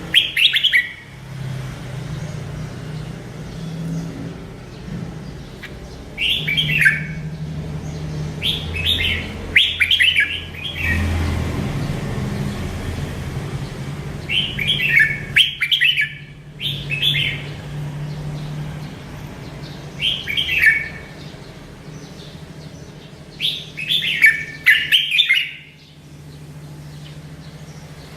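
Merbah lekir bulbul singing in short bursts of quick, falling chattering notes, one burst every few seconds, over a faint steady low hum.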